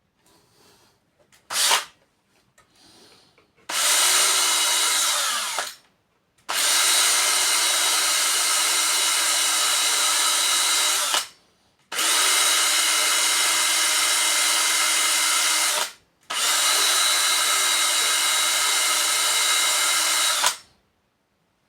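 Small handheld electric drill-type power tool running in four runs of two to five seconds each, after a brief blip near the start; the motor holds a steady pitch in each run and stops abruptly between them.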